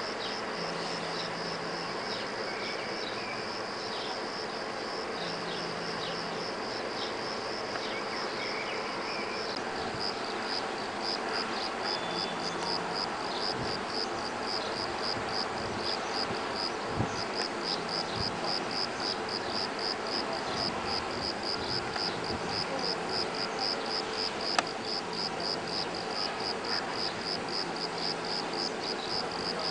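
Insects chirping in a steady, even pulse of a few beats a second, high-pitched, with a faint low hum switching on and off beneath. A single sharp click sounds about 25 seconds in.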